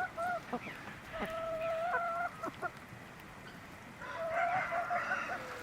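Chickens calling: a few short calls, then a long held call about a second in and another near the end.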